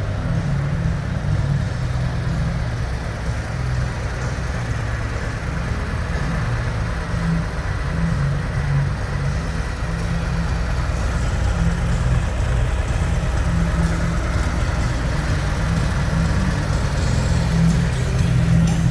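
Harley-Davidson Road Glide's V-twin engine idling steadily.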